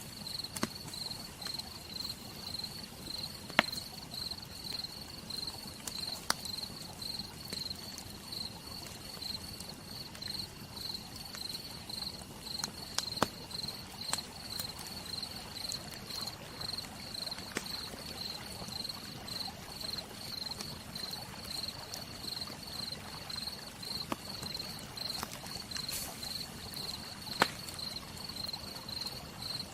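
Campfire crackling, with scattered sharp pops over a steady hiss of rain. An insect chirps throughout in a high, pulsing tone, about three beats a second.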